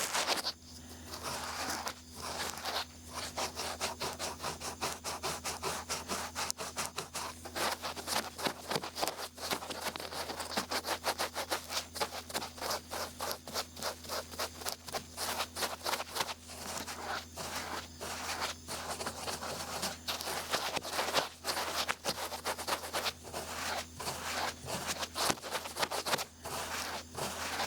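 Large ear pick scraping and rubbing close to the microphone in quick, repeated scratchy strokes, several a second, over a faint steady hum.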